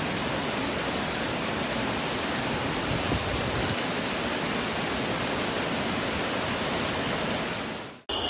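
Steady rushing noise of heavy water, even and unbroken, cutting off suddenly near the end.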